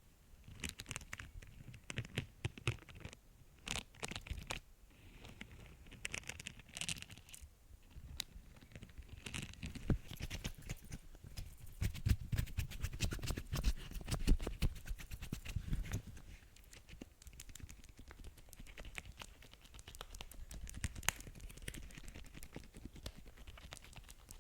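Close-miked ASMR tapping and scratching: a dense, irregular run of small taps and scratches, with heavier, bassier taps in the middle stretch.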